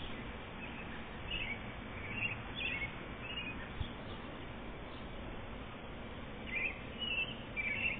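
Small birds chirping in short high calls now and then, a few about a second in and a cluster near the end, over a steady background hiss.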